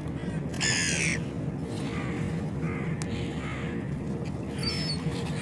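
Gulls calling: one loud harsh call about half a second in, then fainter calls around two seconds in and again near the end.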